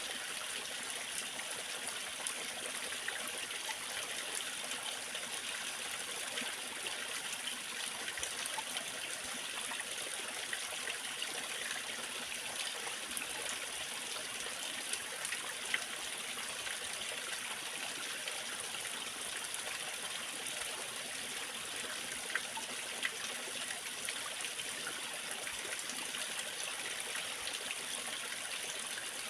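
Small waterfall splashing and trickling steadily, a constant hiss of falling water with occasional brighter splashes.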